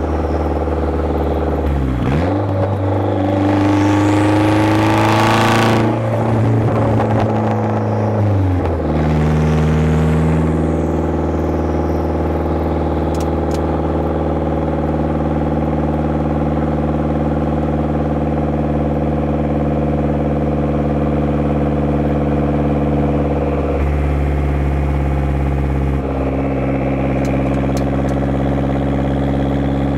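1990 Saab 900 Turbo's turbocharged four-cylinder engine through a straight-pipe exhaust while driving. The engine note dips about two seconds in, climbs under acceleration, drops again with a gear change about nine seconds in, then holds a steady drone while cruising.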